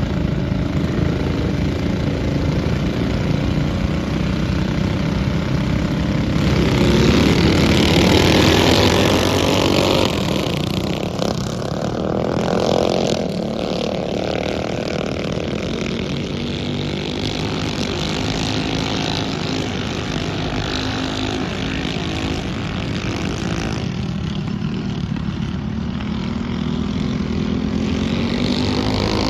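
Mini bike engines racing on a dirt flat track, buzzing steadily with their pitch rising and falling as the bikes rev and pass. They are loudest about seven to ten seconds in, as bikes go by close.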